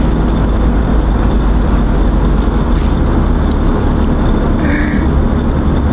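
Kubota utility vehicle's engine running steadily as it drives.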